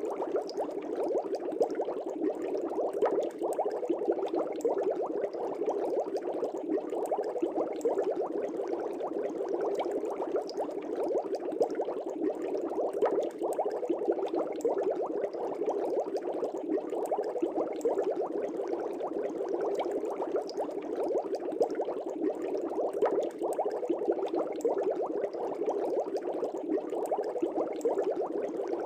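Aquarium air bubbles rising and breaking at the water surface, a steady dense bubbling with small pops throughout.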